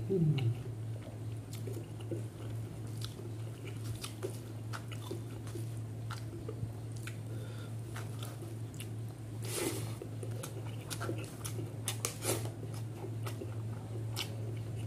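Close-miked eating sounds: a person chewing a mouthful of catfish curry and rice, with many small wet smacking clicks, and fingers squishing rice on the plate. A steady low hum runs underneath.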